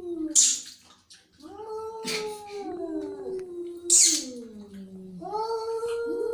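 Angry cats yowling in long, drawn-out calls that rise and then slowly fall, several overlapping at once. Two short, harsh noisy bursts, about half a second and four seconds in, are louder than the yowls.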